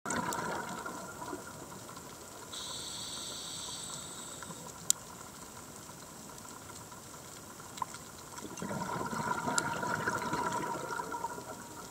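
Underwater sound of a scuba diver breathing through a regulator: a hiss about two and a half seconds in, a sharp click near five seconds, then a longer rush of exhaled bubbles from about eight and a half to eleven seconds.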